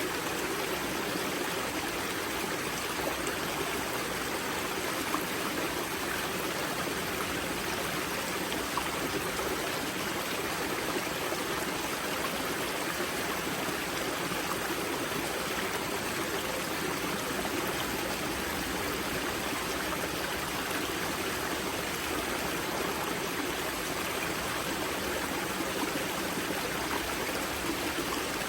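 River water flowing and splashing at a spring source, a steady rushing and gurgling with no breaks.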